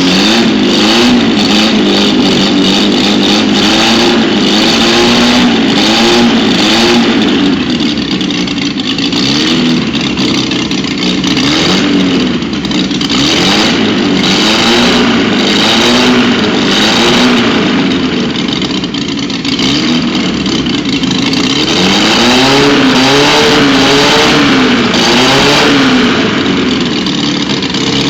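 Engine running with an open exhaust and no muffler, revved over and over in short throttle blips, its pitch rising and falling about once a second.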